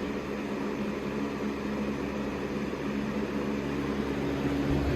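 Holmes HABF-20 box fan running on high: a steady rush of air with a low hum, the fan shaking badly as it runs. A low rumble grows near the end.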